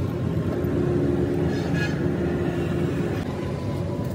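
Steady low engine rumble with a constant hum, and a brief faint rattle about a second and a half in.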